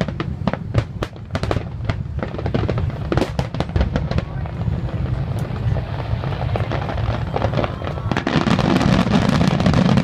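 Fireworks going off: many sharp cracks and pops in quick succession, thickening into a dense crackle and a louder rumble near the end.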